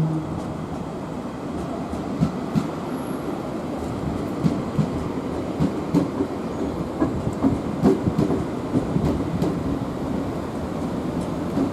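Nankai electric train rolling through the station, with a steady rumble and wheels clacking irregularly over the rail joints.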